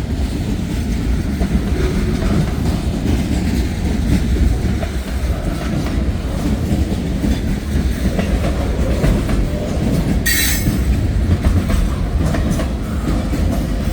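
Freight train rolling past at close range: a steady rumble of steel wheels on the rails with clickety-clack over the joints, and a brief high screech about ten seconds in.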